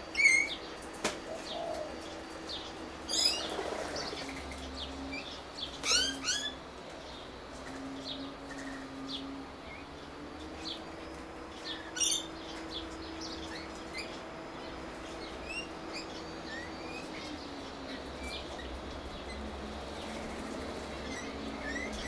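Small birds chirping: scattered short, high chirps throughout, with louder bursts of quick chirps at the start and about three, six and twelve seconds in.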